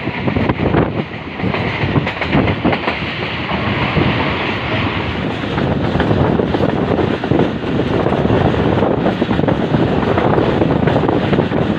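Passenger train running at speed, heard from an open coach window: a steady rumble of the coaches with the wheels clattering irregularly over the rails and points.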